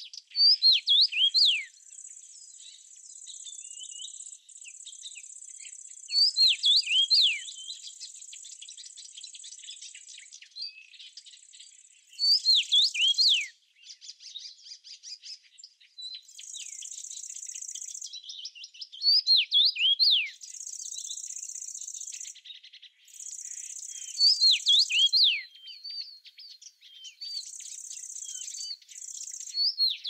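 A songbird singing a short phrase of quick downward-sweeping whistles about every six seconds, over a high, steady insect trill that starts and stops in stretches of a few seconds.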